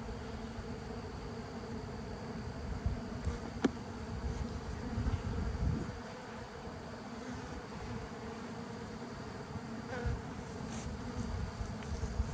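Honeybee swarm buzzing, a steady massed hum of many bees around the hive box, with one sharp click a few seconds in.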